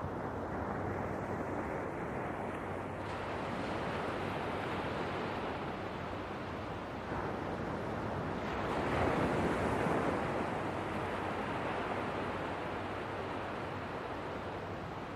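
Ocean waves washing in as a steady rushing surf, with one larger wave swelling up about two-thirds of the way through and then easing off.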